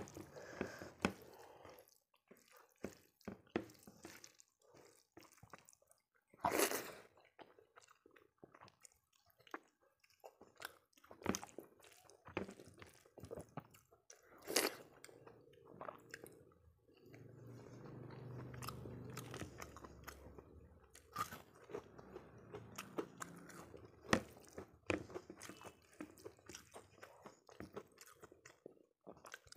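Close-miked eating sounds: wet chewing of rice and dal eaten by hand, with scattered crunchy bites and sharp mouth clicks.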